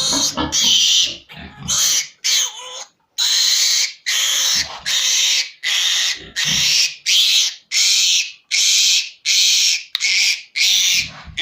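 A three-day-old piglet squealing over and over, about two loud high-pitched squeals a second, as it is held down for teeth clipping.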